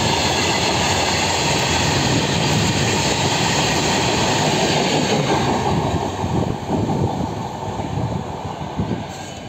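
A goods train of open steel wagons passing close by, its wheels rumbling and clattering over the rails. The noise fades from about six seconds in as the last wagon and the brake van roll away.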